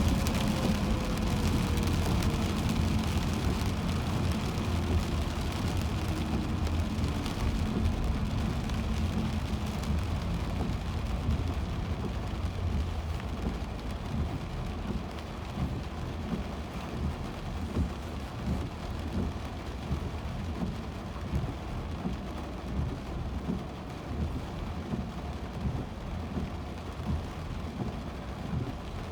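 Heavy rain on a moving car, with the wet road and tyre noise easing over the first dozen seconds while a faint tone falls in pitch, as the car slows. In the second half, soft regular thumps come about every second and a half over the rain.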